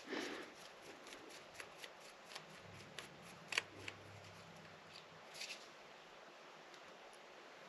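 Light clicks and soft rustling of small parts and tools being handled while a model train locomotive is taken apart, the sharpest click about three and a half seconds in.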